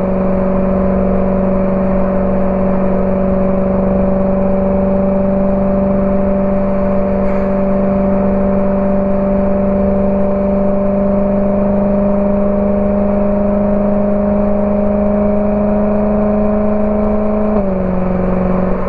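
BMW E92 M3's V8 running through a Borla ATAK exhaust at steady revs, its pitch creeping slightly up, then dropping suddenly near the end.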